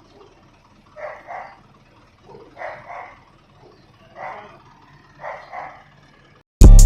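A dog barking in short double barks, about every second and a half, four times. Near the end, loud hip-hop music with a heavy beat cuts in abruptly.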